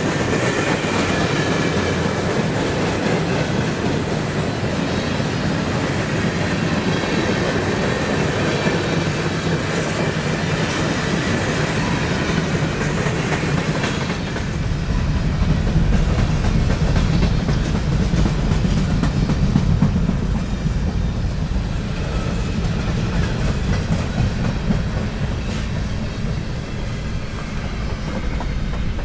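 Train cars rolling past, wheels clicking over the rail joints in a continuous rumble. About halfway through, the higher hiss fades and a heavier low rumble takes over.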